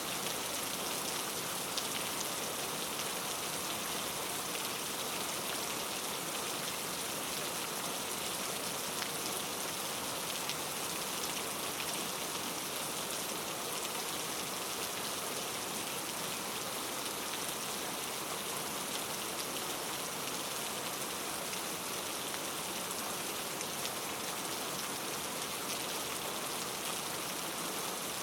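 Steady rain falling, a dense even hiss with faint individual drop ticks.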